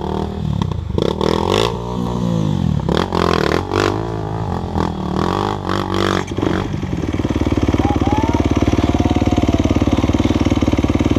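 Off-road dirt bike engine revving up and down in bursts, with knocks and clatter. About seven seconds in it is held at steady high revs for the last few seconds.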